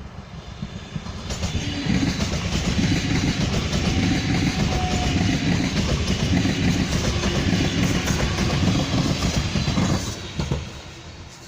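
A train passing by: a loud rumble with rapid knocks from the wheels and a hiss. It builds over the first two seconds, holds for about eight seconds and falls away quickly near the end.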